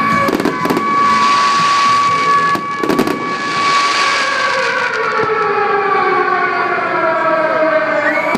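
Fireworks going off: sharp bangs in the first three seconds and a crackling hiss through the middle. A steady high tone runs underneath, and several slowly falling tones are heard over the last few seconds.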